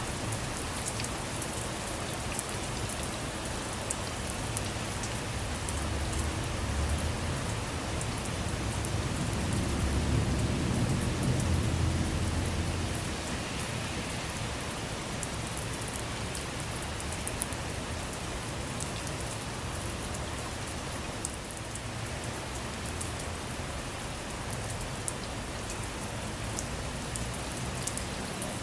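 Steady rain falling, with scattered sharp drips. A low rumble of distant thunder swells about a third of the way in and fades away before the halfway point.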